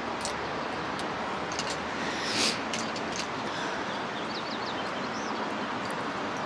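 Steady outdoor background rush with a few light clicks and one short hiss about two and a half seconds in. A quick series of small bird chirps comes in around four to five seconds in.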